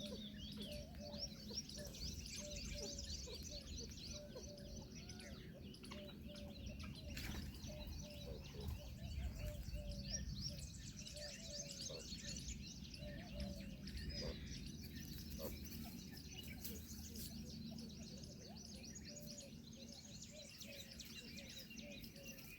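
A chorus of wild birds: many small birds chirp rapidly and overlap at a high pitch, while a lower call repeats every second or so, over a steady low background rumble.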